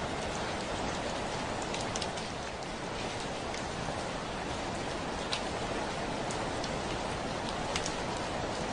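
Heavy rain falling steadily on a window, with the odd sharp tick of a single drop hitting close by.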